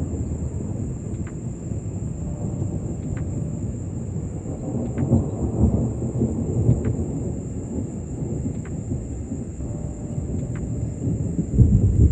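Rolling thunder, a continuous low rumble that swells about five seconds in and grows louder again near the end.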